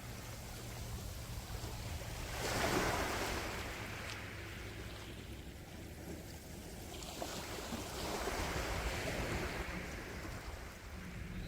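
Sea waves washing onto a shore, the surf swelling loudest about two and a half seconds in and rising again from about eight seconds, over a steady low rumble.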